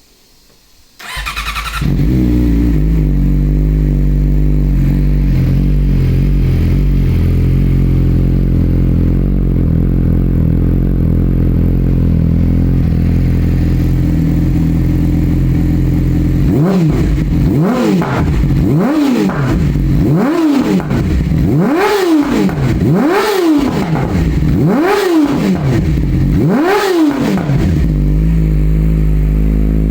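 2019 Yamaha YZF-R6's inline-four engine, heard through an Akrapovic Evolution Line exhaust with its baffle removed. It starts up about a second in and then idles steadily. About halfway through come seven sharp throttle blips, the revs rising and dropping back each time, before it settles to idle again.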